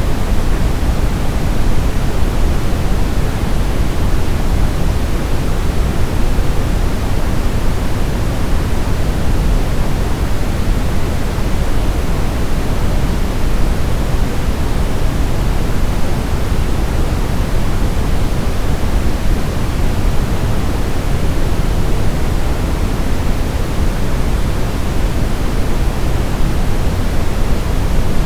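Baby sleep-aid white noise: a steady, unchanging hiss, heaviest in the low end and thinning toward the highs.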